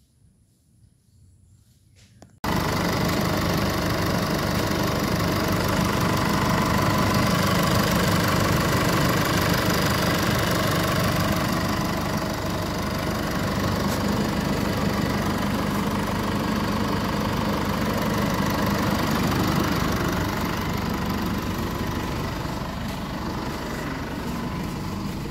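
Near silence, then about two seconds in a Chevrolet Trailblazer engine is heard idling steadily, coming in suddenly at full level.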